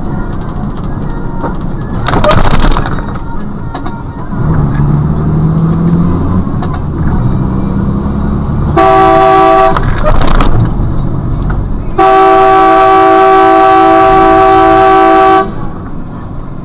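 Vehicle horn sounding twice, first a short blast and then a long blast of about three and a half seconds, over road and engine noise. A loud rushing noise comes about two seconds in.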